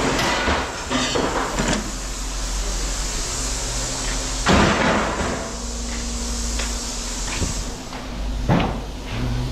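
Scrap metal clanking and banging as pieces are handled, a handful of separate hits with the loudest about halfway through, over a steady low machine hum.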